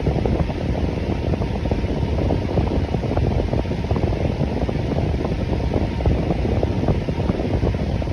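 Electric fan running steadily: an even, unbroken whoosh of moving air that sits low, with little high hiss.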